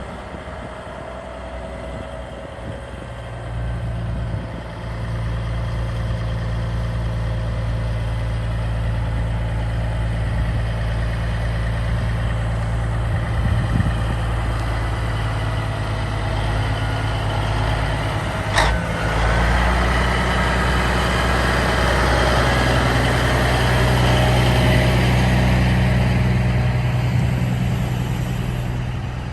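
Heavy diesel semi-truck engine running steadily, growing louder for a while about two-thirds of the way through, with one brief sharp sound cutting in just before it.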